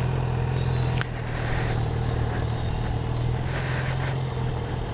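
Motorcycle engine running steadily at low revs, with a single sharp click about a second in, after which the engine note drops slightly.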